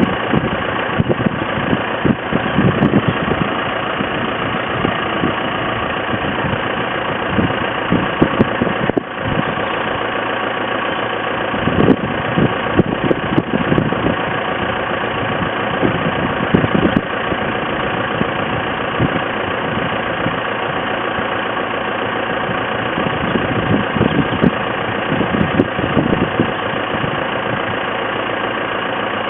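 Tractor engine running steadily at idle, with irregular brief louder moments.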